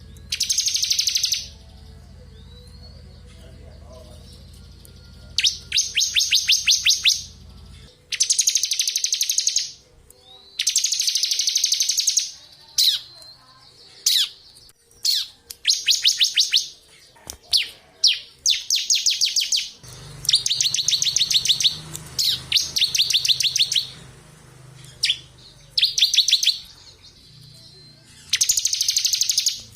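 Bar-winged prinia (ciblek) singing its rapid drilling 'ngebren' song: bursts of fast, high trills about one to two seconds long, repeated a dozen or so times, with short sharp chip notes between them.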